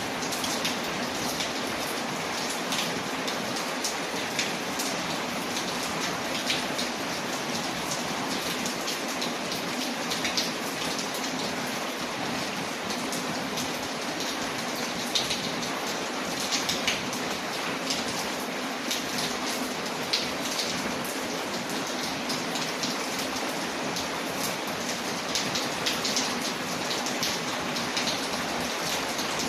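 Steady rain pattering, layered with a wood fire crackling: scattered sharp pops and clicks over the even hiss of the rain.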